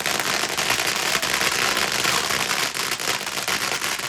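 Fireworks crackling continuously: a dense, rapid patter of small pops.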